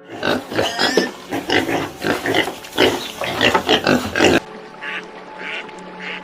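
Pigs calling in a rapid run of loud, rough calls that stop suddenly about four seconds in. After that, fainter short calls repeat regularly, a little more than one a second.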